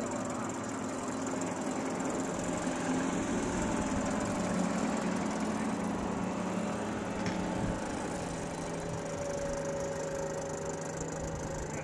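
Boat motor running at a low steady speed, its pitch dropping slightly partway through.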